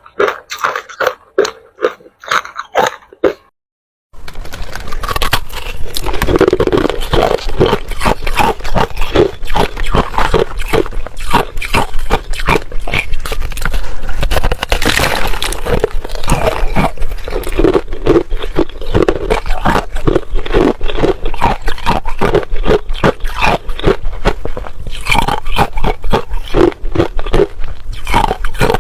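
Ice being chewed, loud crunching. First come separate crunches, then after a brief break near four seconds, dense, continuous crunching and grinding.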